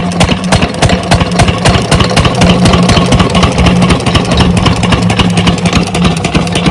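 A 12 hp diesel engine on an irrigation water pump set running steadily, with a rapid, even firing beat.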